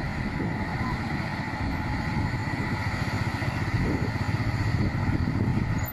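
Road traffic with a heavy truck engine running as a steady low rumble.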